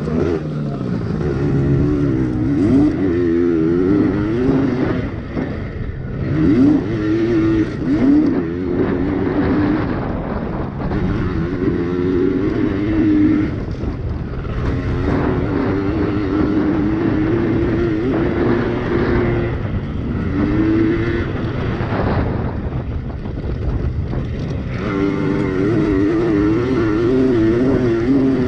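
Small two-stroke engines of Yamaha PW80 pit bikes racing, their pitch rising and falling over and over as the riders rev, shift and back off through the track.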